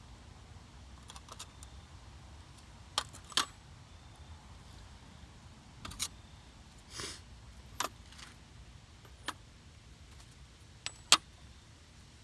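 Scattered metallic clinks and taps, about eight separate ones with the loudest near the end, typical of steel sockets knocking together as they are handled.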